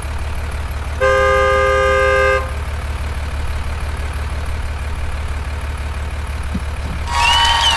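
A vehicle horn honks once, a steady chord about a second and a half long, over a steady low engine hum. Near the end a louder, noisier sound with pitched tones begins.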